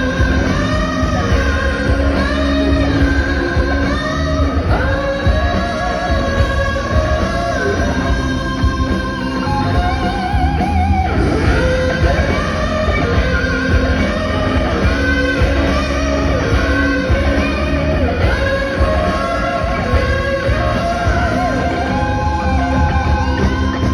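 Live rock concert: singing with held, wavering notes over electric guitar, bass and drums, played through a loud concert sound system.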